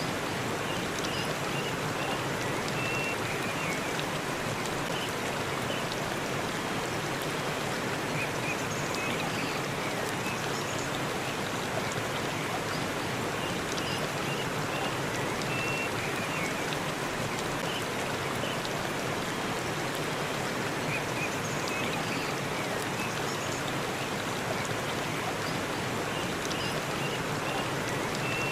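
Waterfall: a steady rush of falling water, with faint, short, high chirps now and then.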